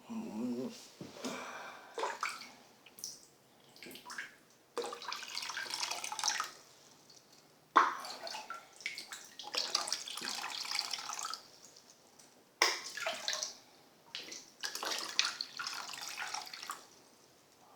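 Bathtub water splashing and pouring in repeated bursts of one to two seconds, a couple of them opening with a sharp splash, as water is disturbed while a betta fish is moved by hand.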